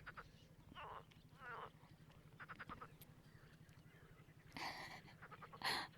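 Frogs croaking: two rippling croaks about a second in, then a quick rattling call, over a steady low pulsing chorus.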